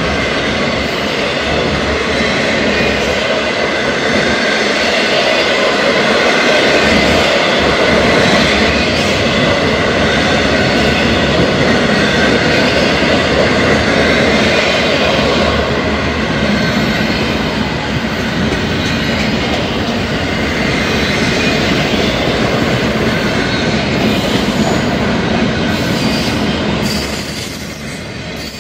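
Freight train's intermodal well cars rolling past: a steady rumble and clatter of steel wheels on rail, with a faint high wheel squeal over it. The sound eases off a little near the end.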